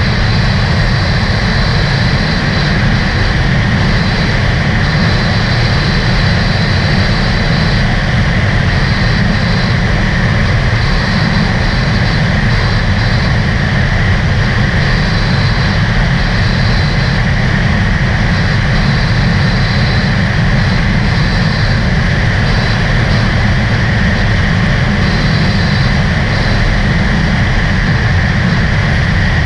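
Sea-Doo RXT-X 300 personal watercraft running steadily under way, its supercharged three-cylinder engine held at an even speed with no revving up or down.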